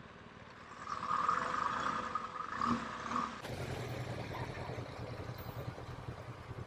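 Muffled vehicle engines idling in traffic, with a low steady hum; the sound changes abruptly about halfway through.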